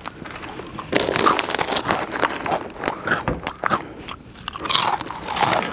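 A person eating crunchy snack food loudly, biting and chewing in an irregular run of crisp crunches.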